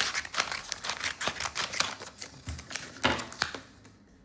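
Packaging being handled and unwrapped: a quick run of irregular crackles and clicks that thins out and quietens near the end.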